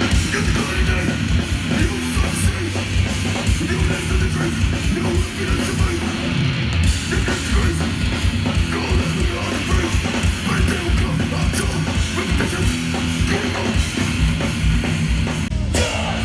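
Hardcore band playing live and loud: heavy distorted electric guitars over fast, dense drumming.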